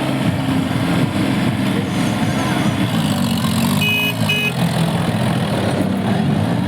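Tractor engine running steadily, with two short high electronic beeps about four seconds in.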